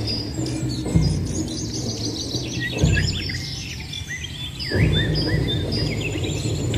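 Many small birds chirping and twittering in quick, overlapping calls, over a low hum that swells about every two seconds.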